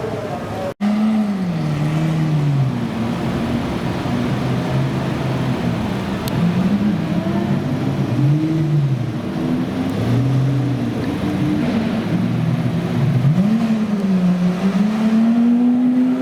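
Supercar engines revving, the pitch climbing and falling again and again, then rising to a held high note near the end. A brief gap about a second in.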